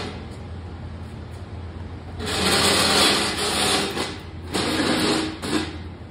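Masking tape pulled off the roll with a ripping rasp, twice: a long pull of about two seconds, then a shorter one of just over a second.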